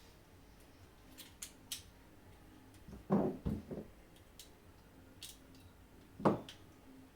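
Small hard objects being handled on a work surface during a controller repair: a few light clicks, then a quick cluster of knocks about three seconds in and one sharper knock near the end.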